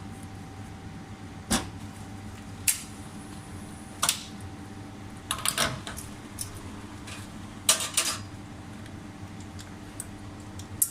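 Scattered sharp clinks and knocks, about six in all, of espresso-bar tools and cups being handled, over a steady low machine hum.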